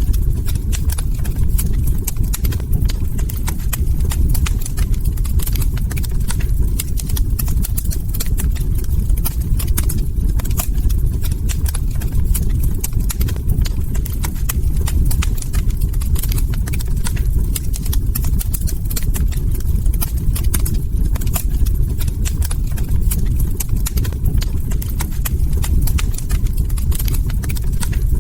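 Log fire crackling, with a constant scatter of sharp little pops and snaps over a steady low rumble of burning.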